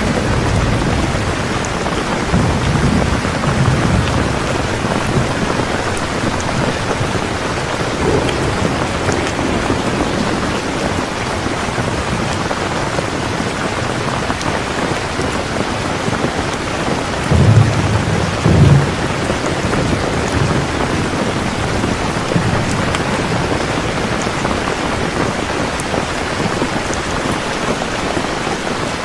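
Heavy rain falling steadily, with rolls of thunder rumbling low beneath it: a longer roll about three seconds in and a louder, double rumble a little past the middle.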